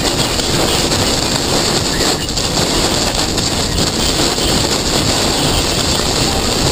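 Steady, loud rush of storm wind and road noise around a moving vehicle in severe thunderstorm winds of about 80 mph.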